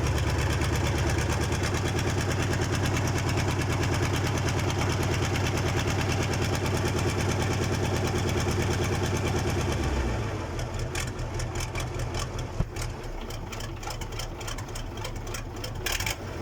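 Freshly overhauled KamAZ diesel engine running on its first start: a steady, dense rhythmic clatter. About ten seconds in it drops to a quieter, lower-speed running with sharper ticking.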